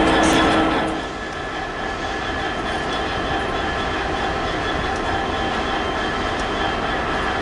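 Freight train passing on the line: a loud rumble of locomotive and wagons that falls away about a second in, leaving a steadier, quieter rumble with faint steady whines.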